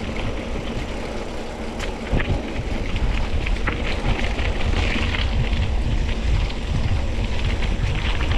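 Wind rushing over a mountain bike's camera microphone with tyres rolling on a gravel forest road, a steady low rumble sprinkled with short clicks and rattles from gravel and the bike.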